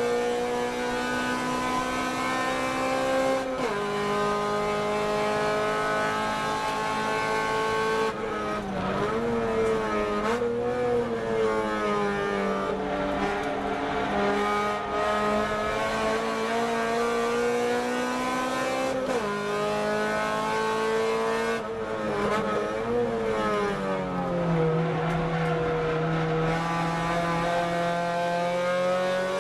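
A car's engine driven hard, its pitch climbing steadily under acceleration. The pitch drops sharply at a gear change about three and a half seconds in and again about nineteen seconds in, and the revs rise and fall unevenly in between.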